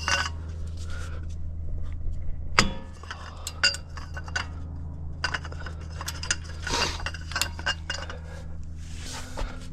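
Metal hand tools and sockets clinking and knocking against each other and the brake parts, in irregular ringing clinks, over a steady low hum.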